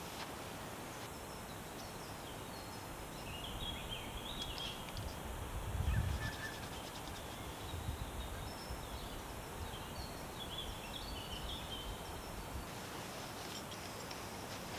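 Outdoor ambience with small birds chirping in the trees, two short bouts of high chirps a few seconds in and again near ten seconds, over a steady background hiss; a low rumble swells and fades about six seconds in.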